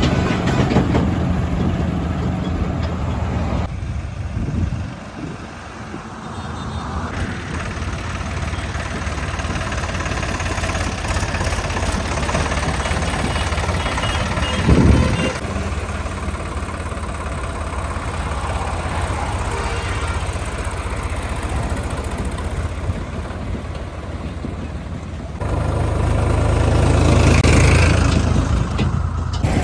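Sonalika DI-35 tractor's diesel engine running, idling and working, its sound changing abruptly several times. A short loud thump about halfway through.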